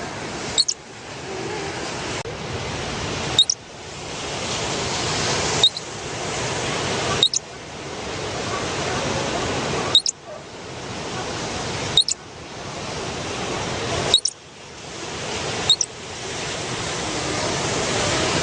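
Rushing noise of flowing water in a nature soundscape. It swells and then cuts off sharply about every two seconds, and a short high squeak or click comes at each cut, about eight times.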